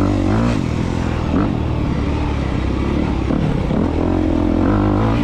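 2022 Honda CRF250R's single-cylinder four-stroke engine being ridden over track bumps, the revs rising and falling repeatedly as the throttle is worked.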